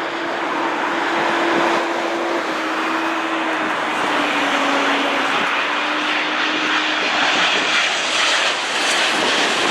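Jet airliner passing close, a steady rush of jet engine noise with a faint tone that slowly drops in pitch over the first several seconds.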